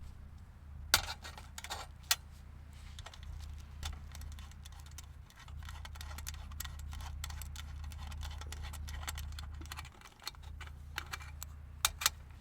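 Scattered sharp metallic clinks and ticks, like small metal items being handled, over a steady low rumble that breaks off briefly twice.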